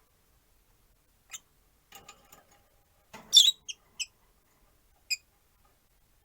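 Rosy-faced lovebirds giving a few short, sharp chirps with gaps between them. The loudest burst of calls comes a little past the middle.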